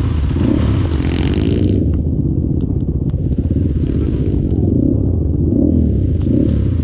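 Dirt bike engine revving up and down repeatedly, with a few short clicks in the middle.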